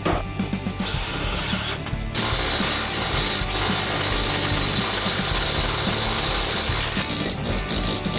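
A power drill runs as a steady high whine for about five seconds during a furnace installation, over background music. A shorter burst of the drill comes about a second in.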